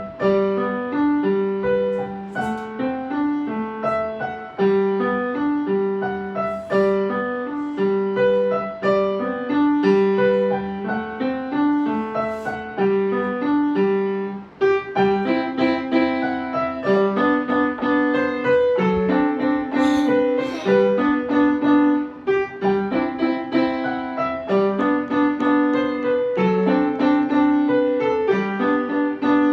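Piano playing a gentle barcarolle (boat song), a melody over a repeating low accompaniment figure, after a spoken count-in.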